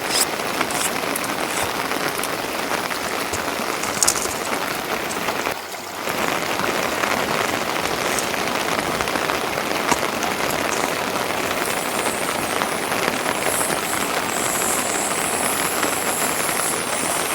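Steady rain falling, an even hiss throughout, briefly dropping away just before the middle, with a higher, sharper hiss added in the second half.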